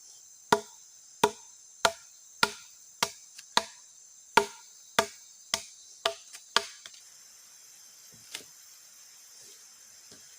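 About a dozen sharp chopping strokes into wood, roughly two a second, each with a short woody ring. They stop about two-thirds of the way in, and one lighter knock follows a little later. Insects buzz steadily and high-pitched behind them.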